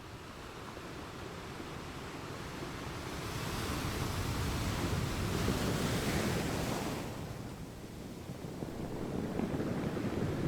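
Ocean waves washing onto a shore. One wave swells up and peaks about halfway through, then washes back, and another begins building near the end.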